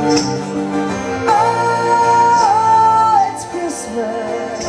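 Live band music between sung lines, with one long held high note starting about a second in.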